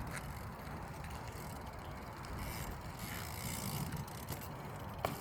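A bike's freewheel hub ticking as the rider coasts, over a steady low rumble of rolling tyres, with a sharp knock about five seconds in.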